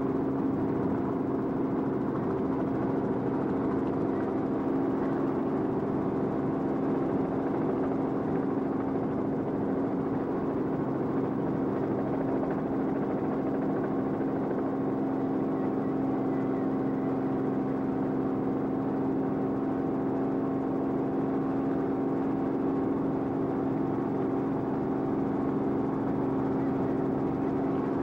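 Steady drone of an aircraft's engine heard from on board, a constant hum that holds the same pitch throughout.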